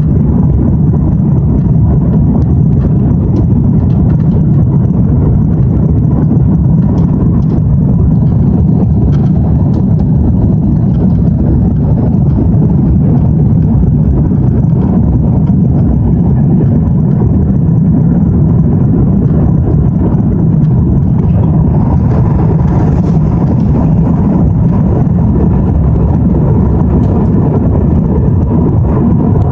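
Jet engine noise heard from inside the cabin of an Airbus A330-223, its Pratt & Whitney PW4168A turbofans running at high takeoff power. The sound is a loud, steady rumble with a faint steady whine above it.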